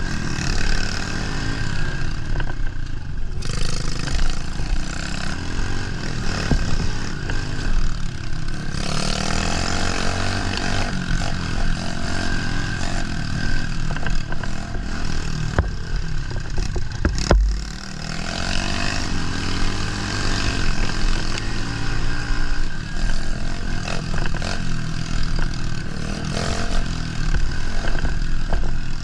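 A 110cc four-stroke pit bike engine being ridden hard on a woods trail, its revs rising and falling as the throttle opens and closes, with clattering from the bike over rough ground. A single heavy thud comes about seventeen seconds in.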